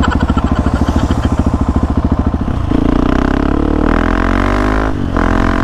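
KTM 690 Enduro R's single-cylinder engine, noisy, first idling with an even thumping beat of about ten a second. Then it revs, the pitch climbing for a couple of seconds, dips briefly near the end and picks up again.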